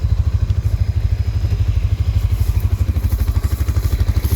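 A vehicle engine running steadily at close range, a rapid, even low pulse with no change in speed.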